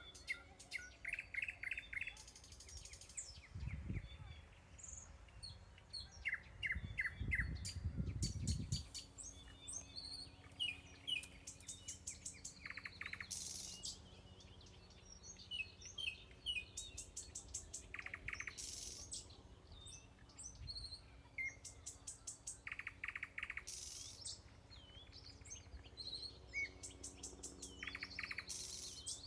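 Small songbirds singing in bushes: a busy mix of chirps, quick trills and rapid runs of repeated high notes. A low rumble comes twice, briefly about four seconds in and again for a couple of seconds around eight seconds in.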